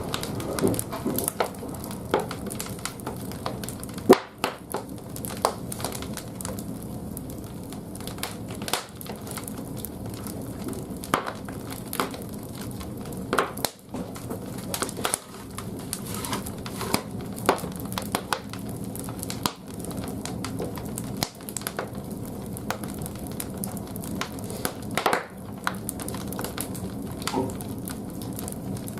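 Large firewood logs burning in a bathhouse boiler's firebox: irregular sharp cracks and pops over a steady low rush of fire.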